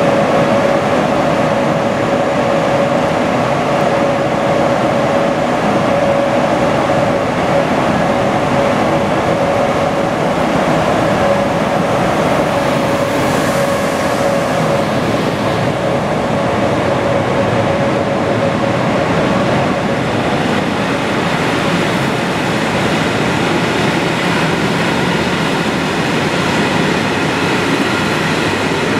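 An SJ Rc4 electric locomotive and its passenger coaches rolling past along the platform in an underground station, a steady dense rumble of wheels and running gear. A steady hum at one mid pitch runs under it and stops about two-thirds of the way through.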